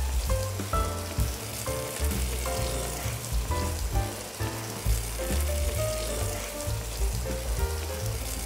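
Gizzards and tomatoes sizzling as they fry in a pan, under background music with a pulsing bass and short melodic notes.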